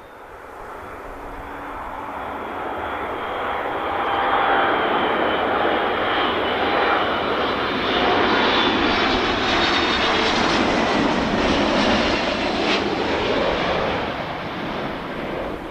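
Airliner's engines passing close by, growing louder over about four seconds, staying loud for about ten, then starting to fade, with faint whining tones that slide slightly lower in pitch.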